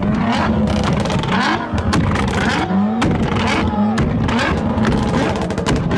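Car engines running and revving, the pitch rising and falling several times, with sharp cracks over the top.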